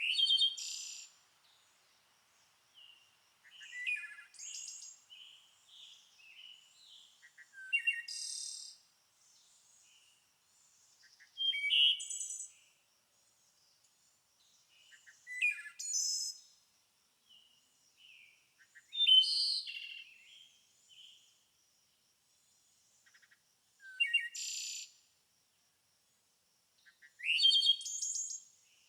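A songbird singing short, quick, complex phrases, about eight in all, each coming roughly every three to four seconds with quiet gaps between.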